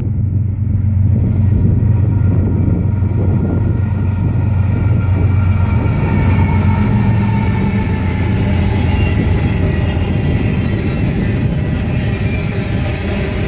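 A Norfolk Southern doublestack intermodal train passing close by. Its diesel locomotives drone as they go past in the first half, followed by the steady rumble of the container cars' steel wheels on the rails.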